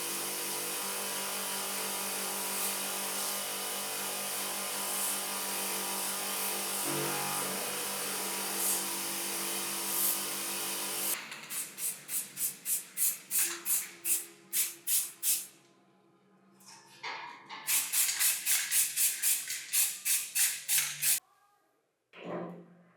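A power tool runs steadily for about eleven seconds and then stops, while the concrete vibrator's motor rotor is being cleaned. Rapid scraping strokes follow, about four a second, in two runs with a short pause between them.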